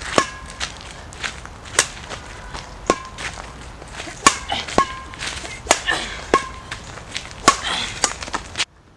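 A series of irregular sharp hits or taps, about fifteen over eight seconds, several followed by a brief high ring, over a steady hiss that cuts off suddenly near the end.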